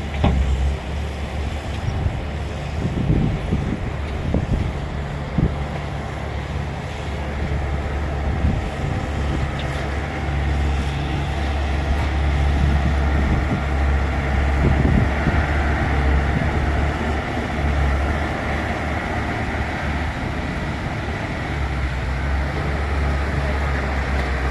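Bulldozer's diesel engine running steadily under load, a low drone that grows a little louder in the second half, with a few short knocks early on.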